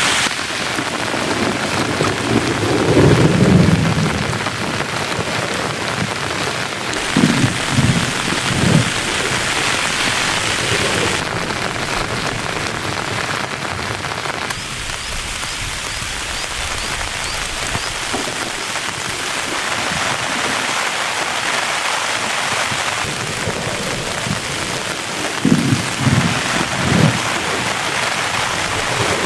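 Heavy rain falling steadily, with a few short low rumbles about 3 seconds in, around 8 seconds and near the end.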